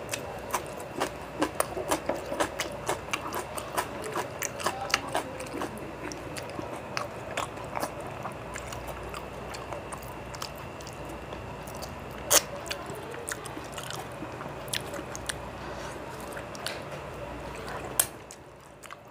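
Close-up mouth sounds of a man eating rice and curry by hand: wet chewing with many short lip-smacking clicks, one sharper click a little past halfway, and some squishing as fingers mix rice on the plate.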